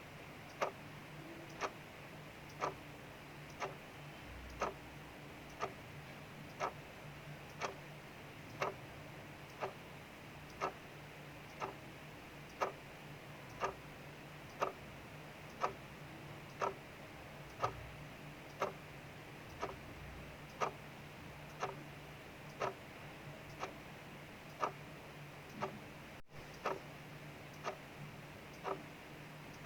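Mechanical clock ticking steadily at about one tick a second, with faint, even rain hiss behind it.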